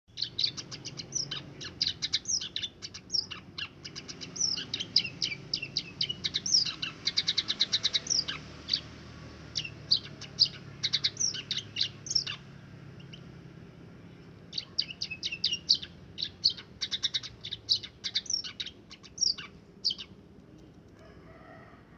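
Peking kaji munia singing a canary-like song of rapid chirps and trills, learned by mimicry from being raised with other birds. It sings in two long bouts with a pause of about two seconds between them.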